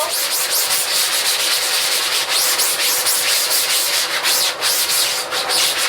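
Quick repeated rubbing strokes on a wet screen-printing screen, working emulsion remover into the mesh to loosen the emulsion.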